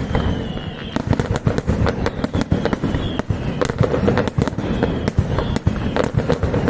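Aerial fireworks display going off: a dense, unbroken run of bangs and crackling reports, several each second, over a low rumble of further explosions.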